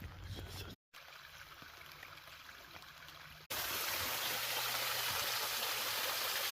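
Running water of a stream on a trail, with a brief dropout about a second in. About halfway through, a much louder steady rush of a waterfall starts abruptly and cuts off suddenly at the end.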